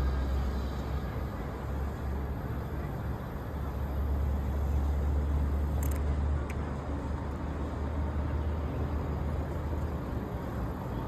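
Steady low rumble of road and engine noise inside a moving car, with a faint click about six seconds in.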